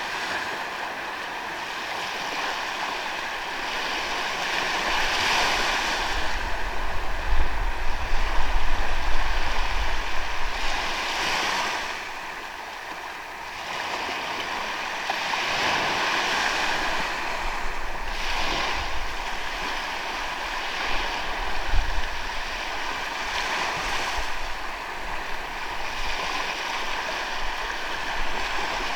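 Ocean waves breaking and washing up on a beach, the surf swelling and fading every few seconds. A low rumble is loudest between about six and ten seconds in.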